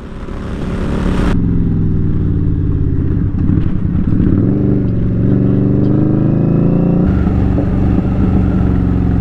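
2019 Indian Scout Bobber's V-twin with Vance & Hines slash-cut exhaust running under way, fading in over about the first second. Its pitch drops and then climbs again around the middle, as the revs fall and rise.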